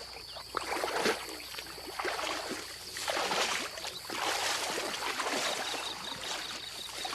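Irregular sloshing and swishing of people wading through shallow swamp water and marsh vegetation, strongest in a few surges about a second and three to four seconds in. A thin, high, steady tone runs underneath.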